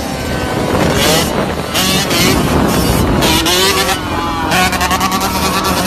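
Motorcycle engine revving, its pitch rising and falling several times, with bursts of rushing noise.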